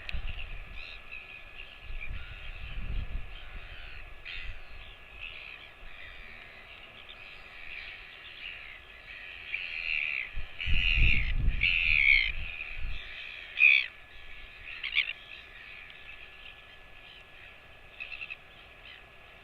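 Crows cawing again and again, the calls loudest and most crowded between about ten and fourteen seconds in. Low rumbles come and go underneath, near the start and again around eleven seconds in.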